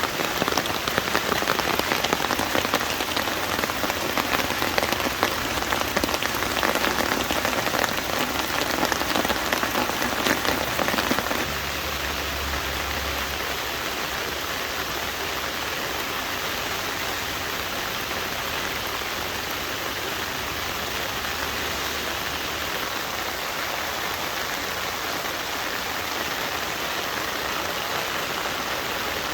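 Heavy rain falling steadily. About eleven seconds in the sound drops a little and becomes smoother.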